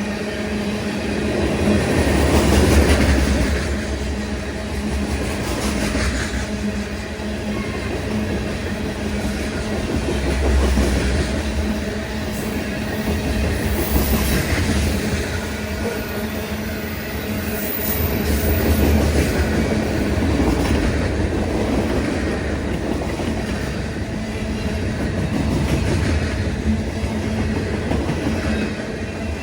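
A train rolling past on the rails: a continuous heavy rumble from the passing cars, rising and falling in louder swells every few seconds.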